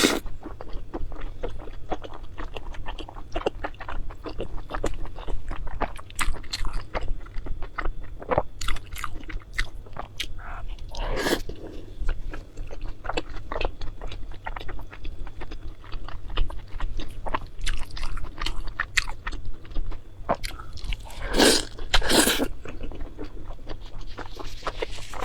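Close-miked chewing and biting of food, with crisp crunches and wet mouth clicks; a few louder bites come about 11 seconds in and twice near 21–22 seconds.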